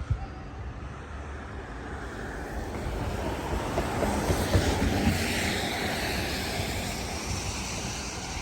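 Tyre hiss of a vehicle passing on a snowy street, swelling to a peak midway and then fading, with wind buffeting the microphone.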